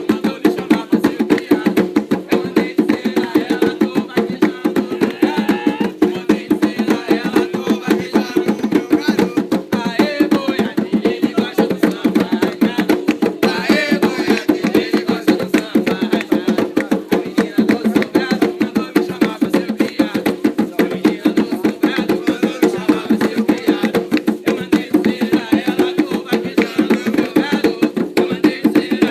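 Atabaque hand drums playing a fast, steady ritual rhythm of Umbanda drumming.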